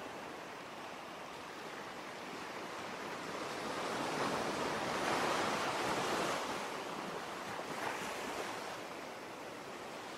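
Ocean surf: a steady rush of sea waves that swells to a peak about halfway through and falls back, like a single wave breaking and washing out.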